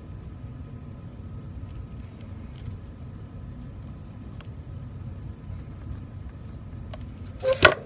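Steady low background rumble with a few faint small clicks of hand work at a bench, and one brief loud sound near the end.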